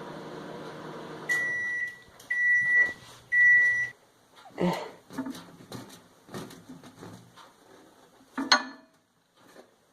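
Microwave oven humming as it runs, stopping about a second in and beeping three times to signal the end of the heating cycle, followed by scattered clicks and knocks.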